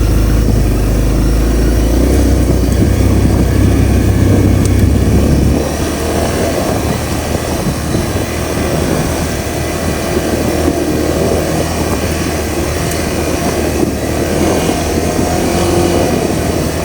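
Honda CRF250L's single-cylinder four-stroke engine running as the bike is ridden. A deep low rumble under it drops away about five and a half seconds in, and the sound is a little quieter after that.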